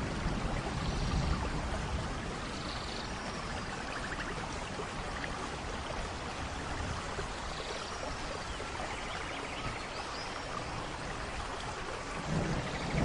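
Steady rain falling, an even hiss with no break. Low thunder rumbles fade out about a second in, and another starts to rumble up near the end.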